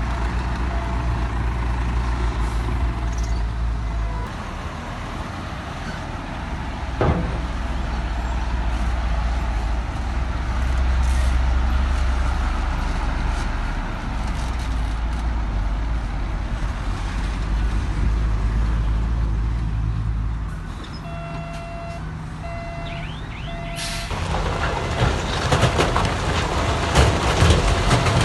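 Heavy diesel construction machinery running steadily with a low rumble. About three-quarters of the way in, a reversing alarm beeps about once a second. Near the end, a loud, continuous clatter of rocks tumbling and knocking sets in.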